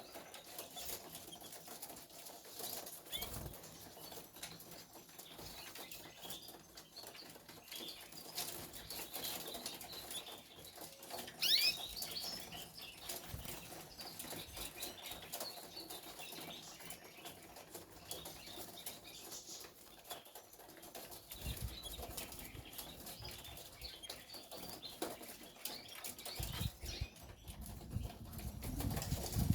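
Canaries fluttering in a cage, with wingbeats and small clicks and rustles from the cage. About a third of the way in comes one short rising chirp, and near the end a low rumble.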